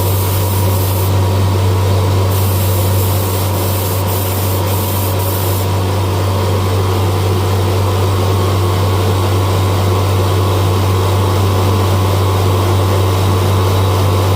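Spray gun spraying clear coat: a steady hiss of air and paint that brightens in spells during the first few seconds, over a constant low hum.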